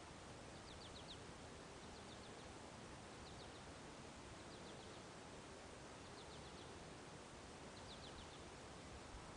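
Faint outdoor ambience with a small bird calling: quick groups of three to five high chirps, repeated about every second and a half.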